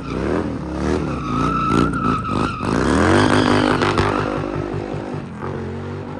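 Harley-Davidson Twin Cam V-twin engine through an aftermarket exhaust, revved several times with the pitch rising and falling, then settling to a steady idle with a loping beat about three seconds in.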